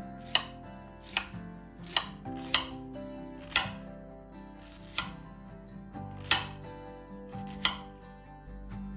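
Knife slicing through a red onion and striking the cutting board, about eight crisp strokes at an uneven pace of roughly one a second, over soft background music.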